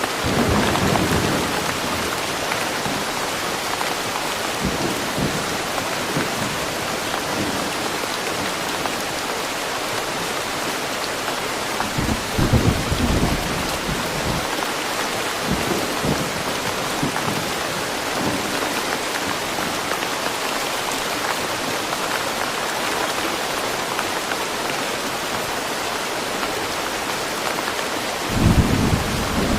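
Steady, heavy rain falling on trees, with low rumbles of thunder at the start, again about halfway through, and once more near the end.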